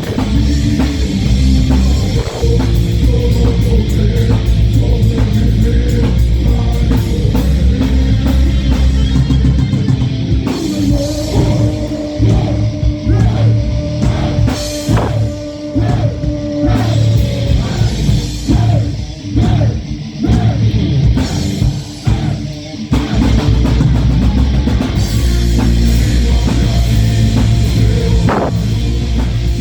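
Heavy metal band playing live: distorted guitars, bass and drum kit. About ten seconds in it drops to a sparser passage of held guitar notes over separate drum hits, and the full band comes back in at around 23 seconds.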